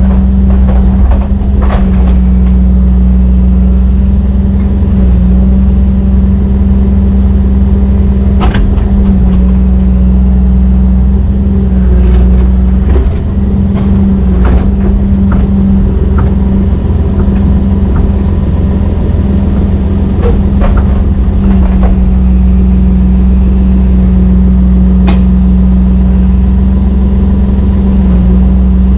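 Heavy diesel engine of a Brøyt X21 excavator running steadily with a deep drone, the revs shifting slightly, with a few sharp clanks and knocks from the machine.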